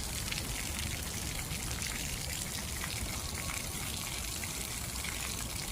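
Water trickling and splashing steadily, with faint small ticks of drops.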